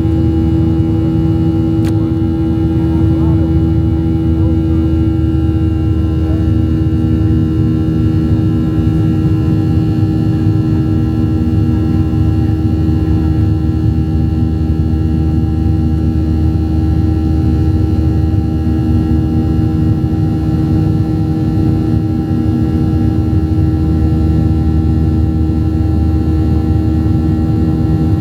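Steady drone of a Boeing 737-700 in flight, heard inside the cabin: a low rumble of airflow and CFM56 turbofan engines, with a steady humming tone over it.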